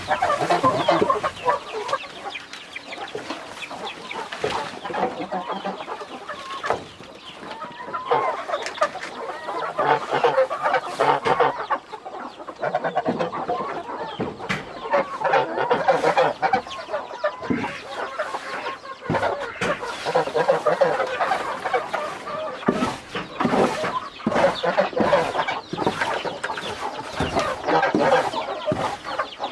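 A flock of chickens clucking continuously, with scattered short clicks and knocks among the calls.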